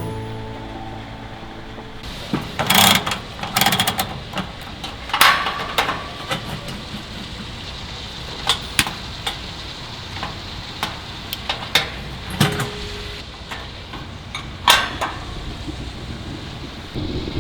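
Scattered knocks and clatter of camping gear being handled, some in quick clusters, over steady wind noise.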